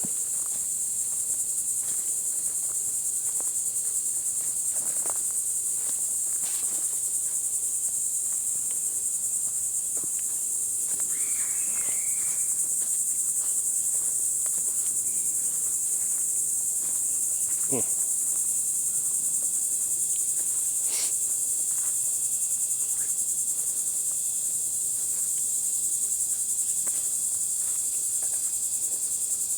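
Steady, high-pitched chorus of insects such as crickets or katydids, droning without a break, with a few faint scattered clicks.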